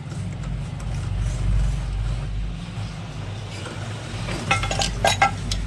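A steady low engine rumble, with a quick run of sharp metal clinks near the end.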